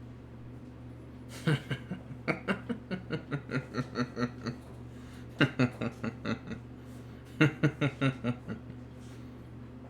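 A person laughing in three bouts, each a quick run of chuckles: a longer one about a second and a half in, then shorter ones around five and seven and a half seconds in. A steady low hum runs underneath.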